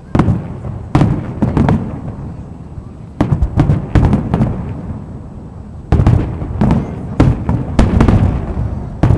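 Display fireworks going off in quick clusters of sharp bangs, each followed by a low rolling rumble, with lulls of a second or two between the clusters.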